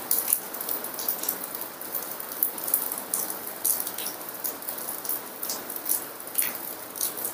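Heavy rain falling outside: a steady hiss with many small irregular ticks of drops.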